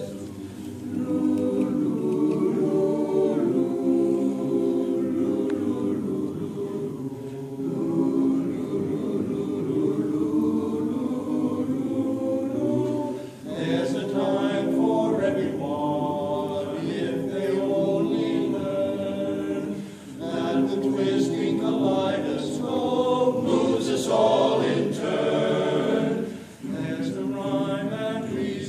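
A group of voices singing together, apparently unaccompanied, in long phrases with brief breaks between them.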